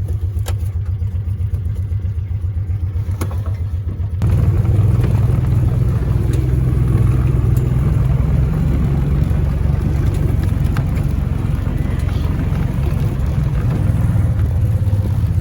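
A vehicle engine running steadily, a low pulsing hum that gets louder about four seconds in.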